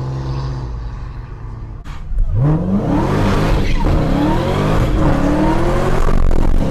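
Dodge Hellcat Redeye's supercharged 6.2-litre V8 running low and steady, then about two seconds in revving hard again and again in a burnout, with the rear tyres spinning.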